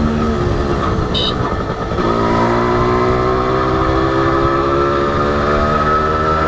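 Honda H100S two-stroke single-cylinder motorcycle engine running under way. The note breaks up briefly, then from about two seconds in the engine pulls again with its pitch rising slowly, and there is a short high beep about a second in.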